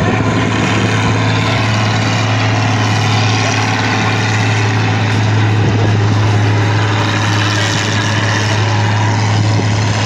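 Farm tractor engine running loud and steady, with an unbroken low drone and no rise or fall in pitch.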